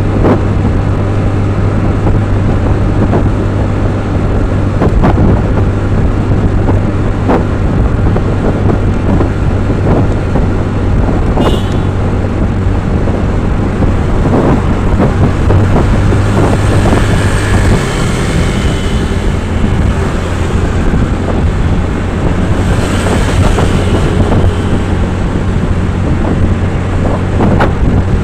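Steady running of a road vehicle with a low engine hum, and wind noise on the microphone.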